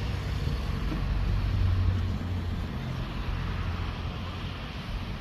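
Wind buffeting the microphone over the steady wash of sea surf, a low rumbling noise that swells in the first two seconds and then eases.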